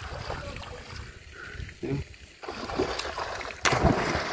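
Water splashing over a steady low rushing rumble, with a louder burst of splashing and rushing water that starts suddenly near the end.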